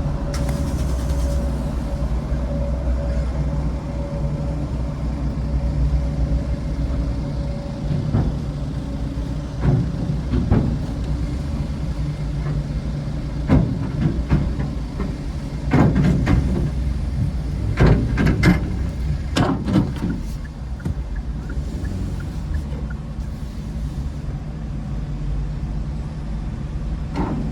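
A steady low engine drone, with a held tone over it for the first few seconds. Several sharp knocks and clunks come in the middle stretch.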